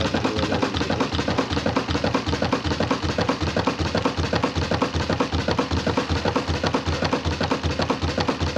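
Spin tub of an Innovex DSAN-65 semi-automatic twin-tub washing machine spinning wet clothes. The motor hums steadily under a fast, even thumping of several beats a second as the machine vibrates.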